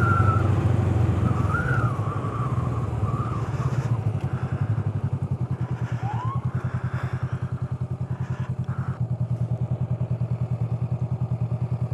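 Motorcycle engine slowing and settling to idle, then ticking over with an even, rapid pulse. A faint wavering tone fades out in the first few seconds.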